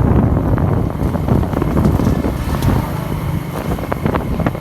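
Motorcycle running while riding, with heavy wind buffeting on the microphone and a few small knocks.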